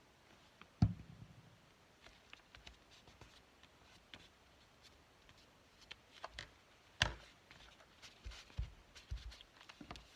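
Paper and craft pieces being handled on a tabletop: light rustles and small taps, with two sharper knocks, one about a second in and one about seven seconds in.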